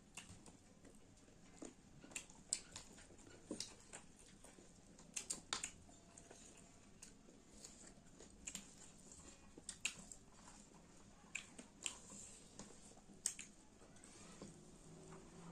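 Close-miked eating sounds: irregular wet clicks and mouth smacks from chewing chicken, faint overall.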